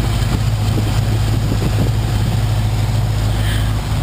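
1977 Chevrolet Camaro's 350 small-block V8 idling steadily, still warming up after a cold start.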